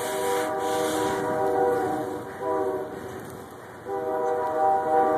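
Train horn sounding a chord through the snowstorm: a long blast, a short one about two and a half seconds in, then another long blast starting near four seconds, with wind gusting on the microphone.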